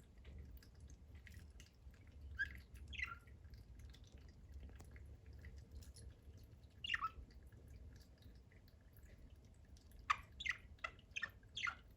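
Budgerigar chirping: short, high calls that fall in pitch, a pair a few seconds in, a single one in the middle, then a quick run of about five near the end.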